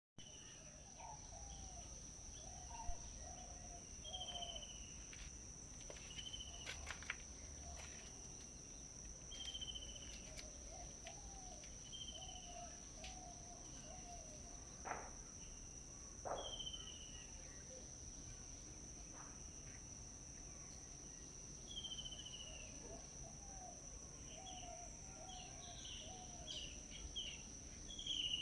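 Songbirds calling over a steady high-pitched insect drone: short falling chirps repeat every couple of seconds, with lower warbled phrases in between. A few short sharp clicks stand out.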